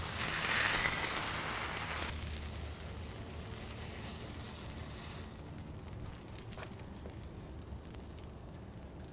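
Cheese-topped smashed beef patties sizzling on a flat-top griddle. The sizzle stops abruptly about two seconds in, leaving only a faint steady hiss.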